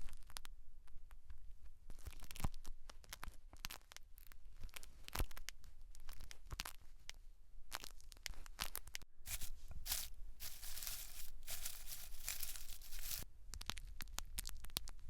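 Close-miked scalp ASMR: hair and scalp being worked by hand or tool, giving irregular crackling and scratching, with a denser stretch of rubbing about two-thirds of the way through.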